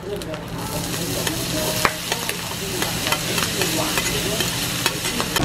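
Fried rice and vegetables sizzling on a hot griddle plate, with metal utensils scraping and tapping against it in many short clicks as the ingredients are tipped on and stirred.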